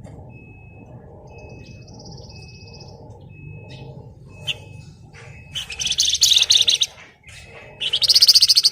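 Javan fulvetta (flamboyan, wergan Jawa) singing: short thin whistle notes repeated about once a second and a brief buzzy trill, then two loud, fast rattling trills in the second half, the dense 'ngebren' rattle the bird is prized for.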